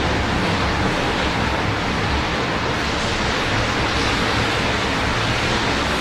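Steady hiss of rain falling, with a low rumble of city traffic beneath it.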